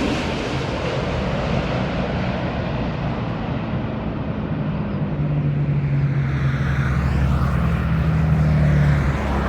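Jet airliner on approach to land: engine noise that eases just after the start, then a steady low drone with a deeper rumble building again over the second half as the next aircraft comes in.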